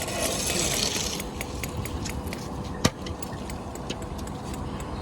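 Column casting work on a building site: a steady low engine rumble under many light, irregular clicks and knocks. A scraping hiss comes in the first second, and one sharper knock about three seconds in.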